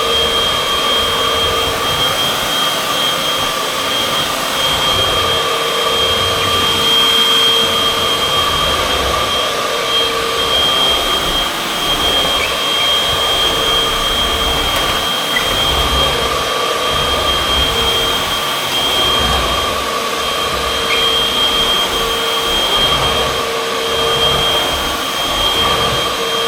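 Vacuum cleaner running steadily while vacuuming a floor: a constant motor rush with a steady high whine over it and a low rumble that varies as it is pushed back and forth.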